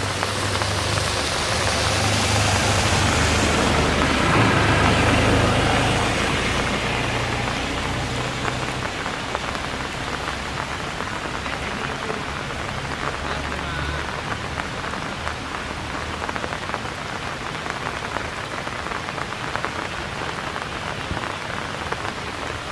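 Steady rain falling on surfaces, swelling louder in the first few seconds and easing off by about seven seconds in.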